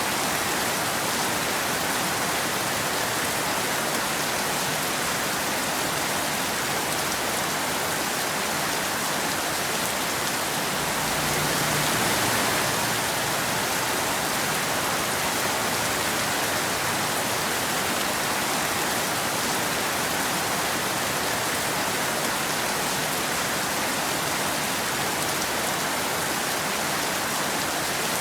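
Steady rain falling, an even hiss of drops on a hard surface, swelling slightly in the middle.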